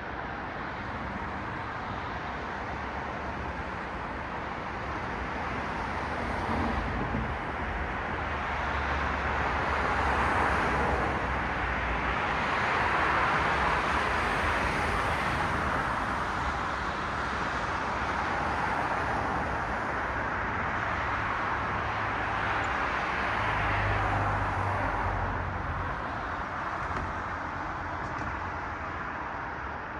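Road traffic: cars passing, their tyre and engine noise swelling a few seconds in, staying up through the middle and easing near the end, over a low steady hum.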